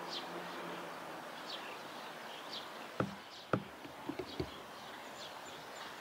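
Short, high, falling bird chirps, roughly once a second, over a steady outdoor hiss, with a few sharp knocks about halfway through.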